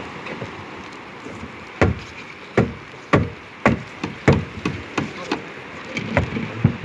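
Series of sharp, hollow knocks on a floating plastic pontoon dock, starting about two seconds in, roughly one or two a second and unevenly spaced, each dropping quickly in pitch, over a steady background of wind and water.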